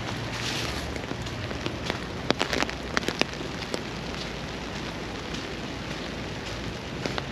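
Steady rain, a constant hiss, with irregular sharp taps of drops landing close to the microphone, several in quick succession a couple of seconds in.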